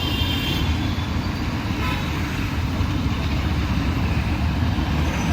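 Steady city road traffic: the rumble of passing car, truck and bus engines, with a short high horn toot right at the start.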